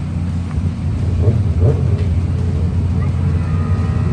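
Generator running with a steady low drone.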